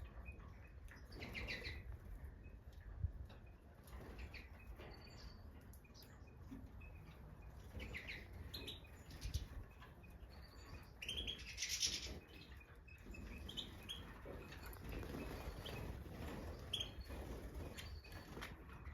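European goldfinches of the Major race giving short, scattered chirping calls, with a louder flurry of calls a little past halfway.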